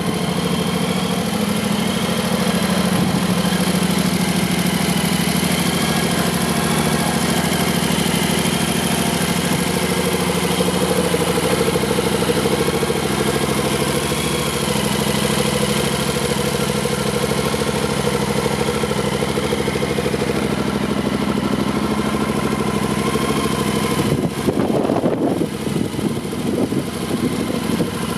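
Yamaha Ténéré 700's 689 cc parallel-twin engine idling steadily, with a brief unsteady stretch near the end.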